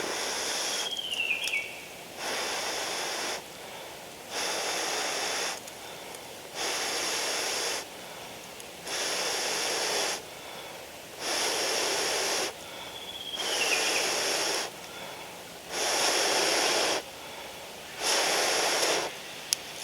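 Long, steady breaths blown onto a glowing char-cloth ember nested in dry cedar leaves to coax it into flame: nine even hissing gusts, about one every two seconds.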